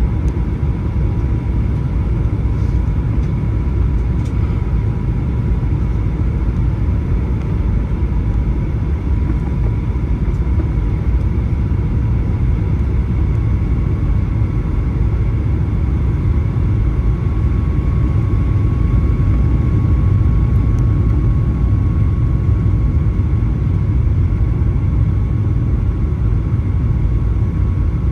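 Cabin noise inside a Boeing 737-900 on descent: a steady low rumble of airflow and its CFM56-7B turbofan engines, with a thin, steady whine that shifts slightly higher about halfway through.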